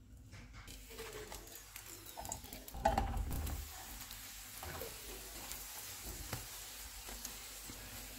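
Ghee sizzling under a keema paratha on a hot nonstick tawa, with a metal spoon scraping across it as the ghee is spread. About three seconds in comes a thump with a clatter, the loudest sound, as the paratha is turned over onto its greased side, and the sizzle carries on steadily after it.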